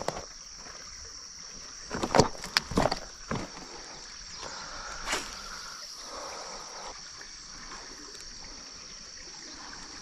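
Fishing rod and reel being handled during a cast: a few sharp clicks and knocks about two to three and a half seconds in, and one more about halfway through. A steady high-pitched drone runs underneath.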